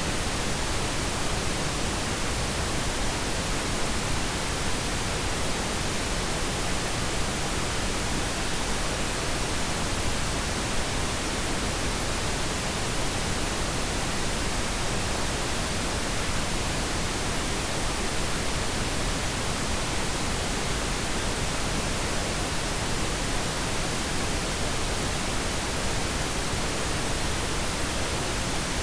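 Steady pink noise: an even, unchanging hiss spread across the whole range, softer in the highs than white noise.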